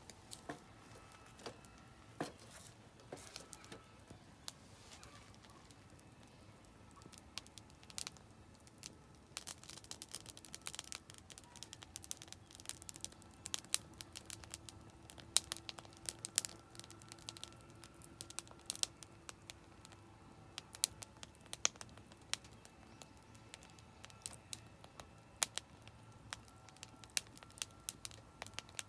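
Oak firewood burning in a campfire, crackling with many sharp irregular pops that come thicker from about ten seconds in.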